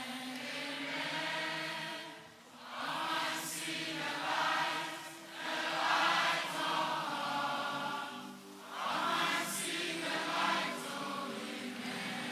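Church congregation singing together like a choir, in about four sung phrases with brief breaks between them.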